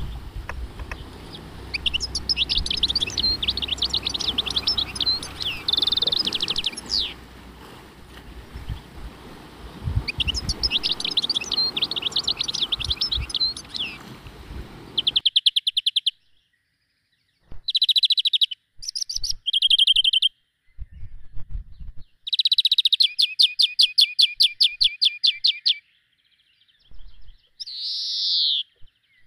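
Small birds singing: twittering phrases and rapid trills over a low background hiss. About halfway through, the hiss cuts out abruptly, leaving separate bursts of chirps, trills and a couple of rising calls with silence between them.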